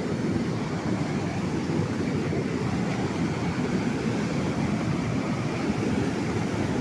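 A steady, low rushing noise with no distinct strikes or rhythm.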